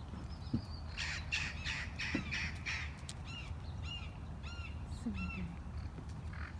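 Feral parrots calling: a run of harsh screeches about a second in, followed by a quick series of shorter, arched squawks.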